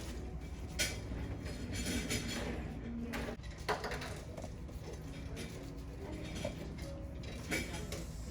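Steady low background hum with a few sharp clicks or clinks, three of them standing out over several seconds.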